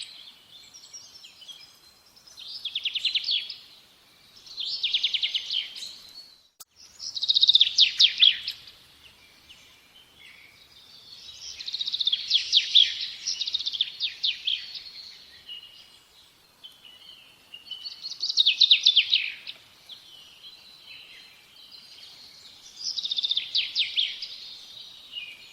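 A songbird singing short phrases of rapid, high trilled notes, each about a second long, repeated every few seconds.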